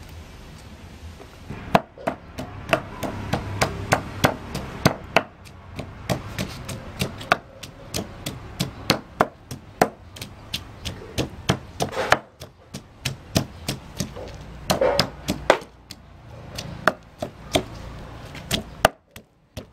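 A kitchen knife chopping on a cutting board: a long run of sharp, even knocks, about two or three a second, with a brief pause partway through, stopping just before the end.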